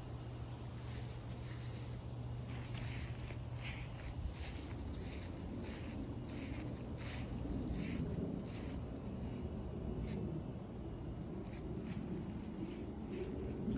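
Crickets calling in a steady high-pitched trill, with a pulsing chirp about twice a second over it from a few seconds in.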